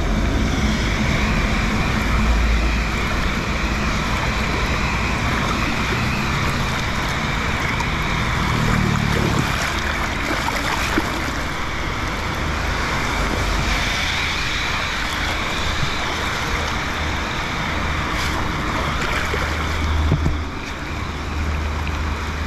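Steady rain falling on shallow water running over concrete pavement, an even hiss throughout, with a low rumble underneath.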